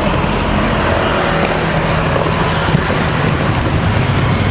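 Steady street traffic noise, with engines running low underneath.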